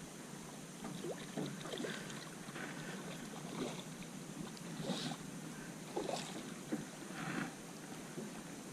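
Water splashing and lapping at a jon boat, with irregular small knocks and splashes every second or so while a hooked redfish is played close to the boat.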